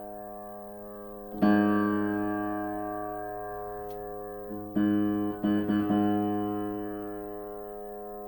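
Aldrich spinet piano: a single low note struck firmly about a second and a half in and left to ring. It is played again near the five-second mark, followed by a few quick repeated strikes of the same key, and fades as it sustains.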